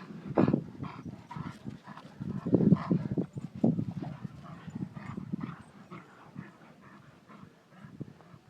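Dogs close by, making quick, irregular breathy bursts that are louder at first and fainter after about five seconds.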